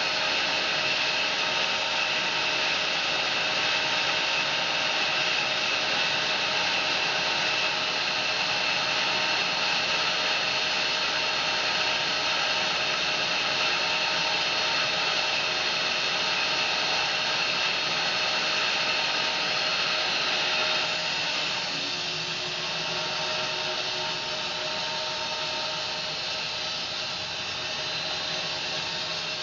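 A home-built bandsaw mill running steadily as its blade cuts along a fir log. About two-thirds of the way through, the sound gets a little quieter and changes slightly in tone.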